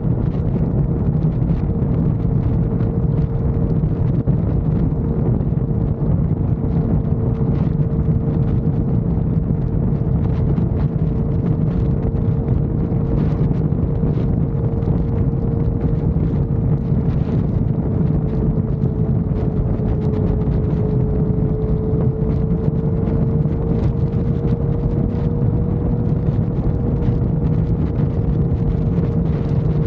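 Motorcycle cruising at steady highway speed: a constant engine drone with a steady whine, and heavy wind rushing over the microphone. The whine dips slightly in pitch about two-thirds of the way through, then comes back up.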